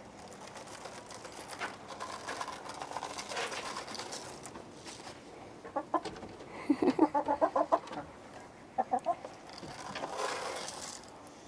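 Domestic chickens clucking while they are fed, with a quick run of short clucks a little past the middle and a few more soon after, over faint scratching and rustling.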